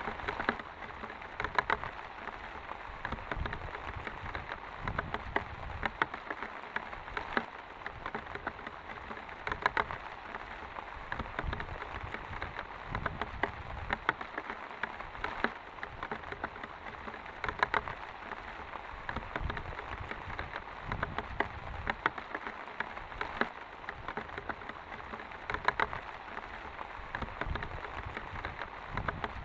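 Heavy rain falling steadily, a continuous hiss dotted with many sharp drop impacts, some louder than the rest.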